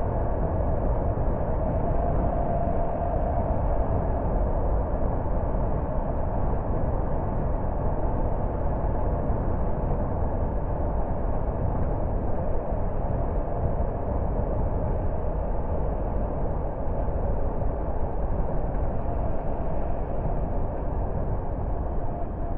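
A car driving steadily: a continuous rumble of engine and tyre noise, with a faint steady hum over it.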